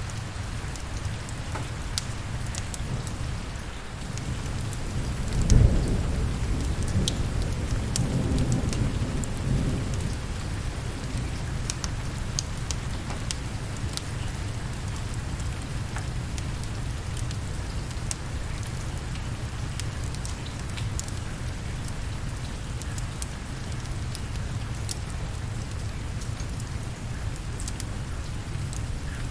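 Steady rain with a roll of thunder that swells about five seconds in, peaks sharply, and rumbles away over the next few seconds. Scattered sharp ticks sound throughout over the rain.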